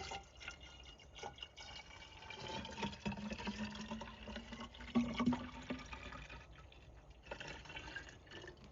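Fluid being poured and gurgling as it fills the car's system, with scattered drips and clicks, while the system is being filled so it can be bled of air.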